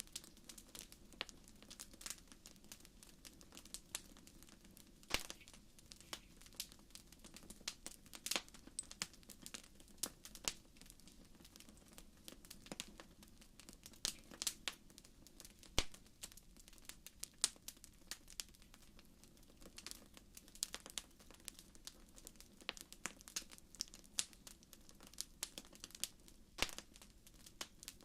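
Wood fire crackling in a fireplace: irregular sharp pops and snaps, some louder than others, over a faint steady low rush.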